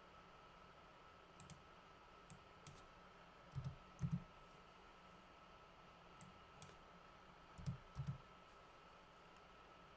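Scattered computer mouse clicks and a few keystrokes, with two louder clusters of clicks partway through, over a faint steady hum.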